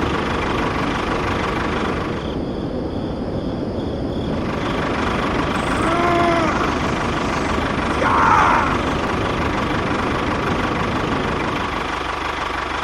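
Small engine running steadily, with an even mechanical clatter. A short arched call sounds about halfway through, and a brief higher chirp follows a couple of seconds later.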